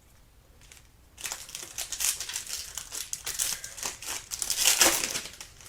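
Crinkling and crackling of a foil trading-card pack wrapper being torn open and handled. It starts about a second in and goes on in a dense run of crackles until the end.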